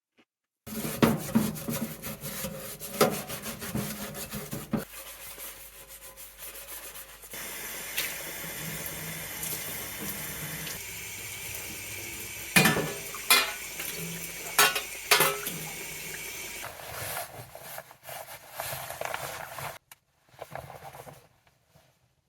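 Water running or pouring, with sharp knocks and clatters of pots and dishes being handled, in several short segments that start and stop abruptly.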